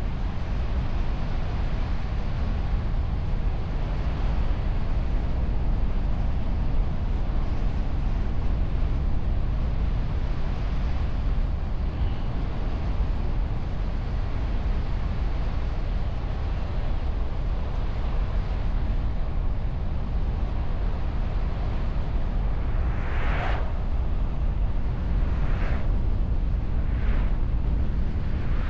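Wind and road noise of a car driving, picked up by a camera mounted on its bonnet behind a wind muff: a steady rumble, heaviest in the low end. Near the end come three short rushes of noise, a couple of seconds apart.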